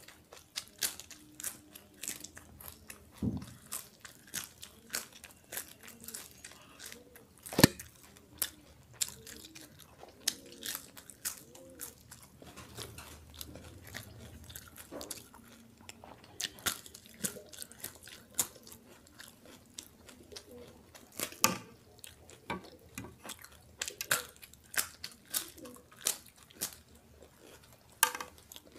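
Close-up crunching and chewing of thin, brittle Rajasthani til patti (sesame brittle sheets): many irregular crisp crackles as pieces are bitten off and chewed, with one loud crunch about 7.5 seconds in.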